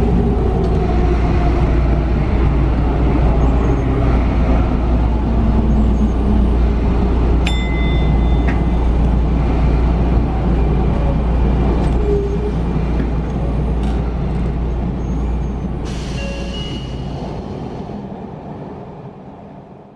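Sotetsu commuter train running on the rails, a steady low rumble heard from inside the front car, with a short high tone about seven seconds in. It fades out near the end.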